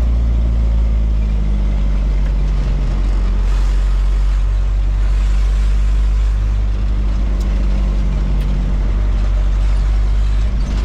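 Truck engine running on the road with tyre and road noise: a steady low drone whose pitch shifts slightly a few seconds in.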